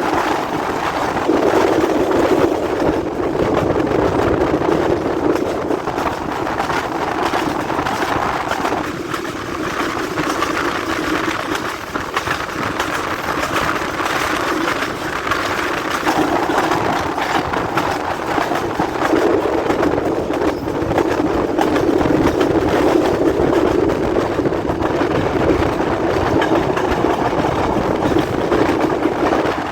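Express passenger train running along the track, heard from aboard: a steady, loud rumble of wheels on rails and the rattling carriage, unbroken throughout.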